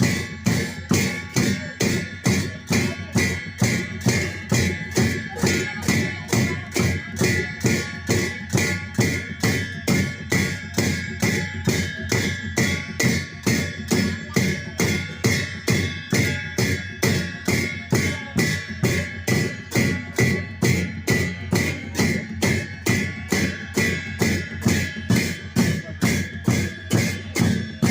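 Sakela dance music: a dhol drum and jhyamta cymbals beating a steady, even rhythm of about two to three strokes a second, the cymbals ringing between strokes.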